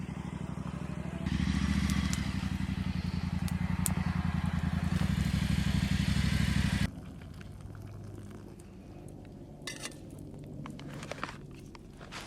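Motorcycle engine running with a steady low pulse, louder from about a second in, then cut off abruptly about seven seconds in. After that, quieter scattered clicks and crackles.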